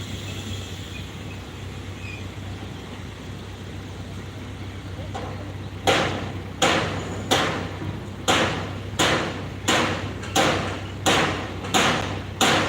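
Heavy construction machinery running with a steady low engine hum; about six seconds in, a regular series of heavy impacts begins, roughly three strikes every two seconds, each one loud and ringing briefly.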